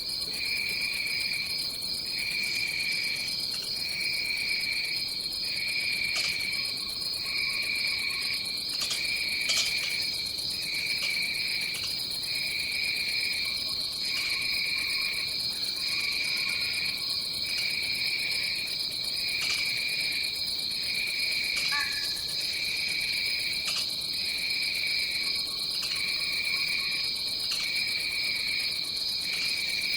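Rainforest insect chorus: a steady high buzz over a lower trill that pauses briefly at regular intervals of a little over a second, with scattered faint chirps and clicks and one short falling call a little past the middle.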